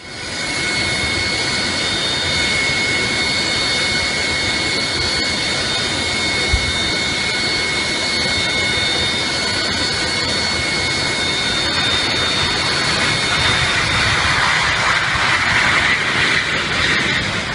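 Jet aircraft engine running with a steady high whine over a loud rush, swelling a little near the end.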